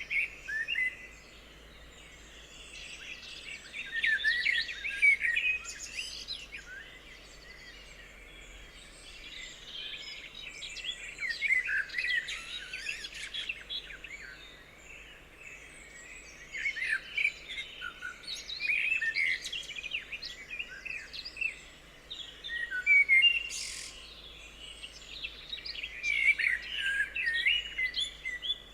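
Several forest birds chirping and singing, many short calls overlapping, in bouts of a few seconds with quieter gaps between them.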